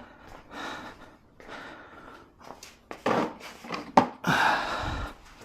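A man breathing hard in short noisy puffs as he works. A single sharp click comes just before four seconds in, followed by a longer burst of breath or handling noise.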